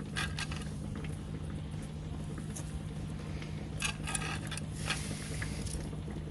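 Scratchy clicks and scrapes of a Dungeness crab being handled against a crab measuring gauge, a few near the start and a cluster about four seconds in, over a steady low hum.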